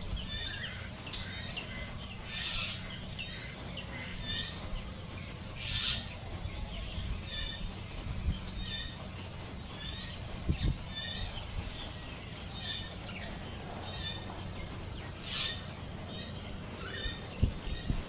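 Outdoor birdsong: a small bird repeats a short high chirp about once a second over a steady low background hum. A few brief louder bursts of high noise and a couple of low thumps, about midway and near the end, come through.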